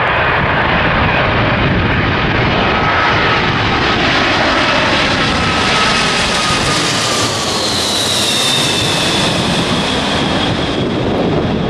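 Jet airliner's engines passing close by: a loud, steady rush with a whine that slowly falls in pitch as the aircraft goes past.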